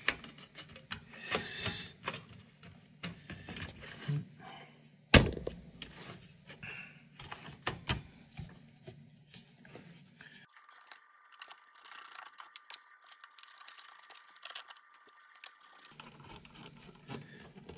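Hands refitting the parts of a computer power supply: scrapes and light clicks of metal and plastic being handled and pushed into place, with one sharp knock about five seconds in. The middle part falls quieter, with a faint steady high tone.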